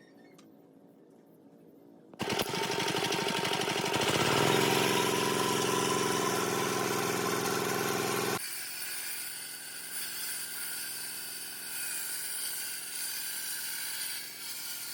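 A motor-driven woodworking power tool starts suddenly about two seconds in and runs loud and steady. A little past halfway it cuts abruptly to a quieter, hissier machine sound.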